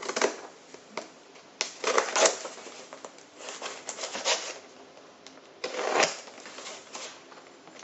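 Irregular rustling and crinkling with light knocks: M18 battery packs being handled in their plastic bags.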